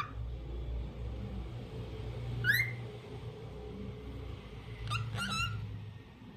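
Lutino cockatiel calling: one short chirp rising in pitch about two and a half seconds in, then two quick chirps near the end, over a low steady background rumble.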